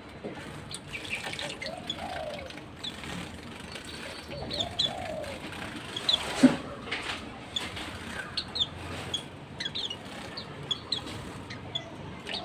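White-eyes (Zosterops) giving many short, high chirps, with wing flutters, while they take turns to bathe. A single sharp knock sounds about six and a half seconds in.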